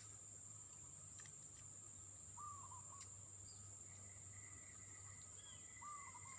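Faint animal calls: a short note that rises and falls, repeated about every three and a half seconds, over a steady high-pitched insect drone.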